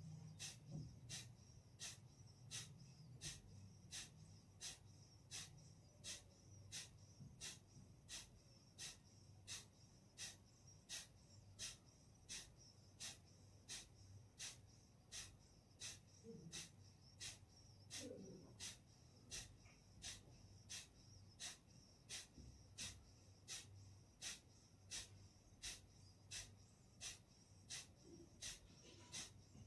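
Kapalbhati breathing: short, forceful exhalations puffed out through the nose in a steady rhythm, about three every two seconds, with quiet passive inhales between.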